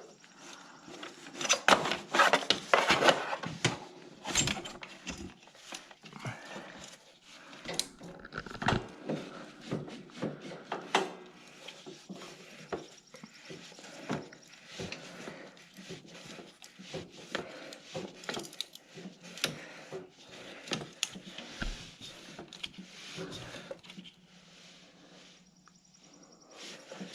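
Irregular metal clinks, knocks and scrapes of a filter wrench and hand tools at work, snugging up a new oil filter on a zero-turn mower's engine.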